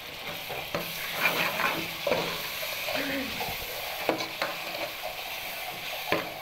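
Chopped tomatoes and onions sizzling in hot oil in a metal pot while a steel ladle stirs them, with several scrapes and knocks of the ladle against the pot.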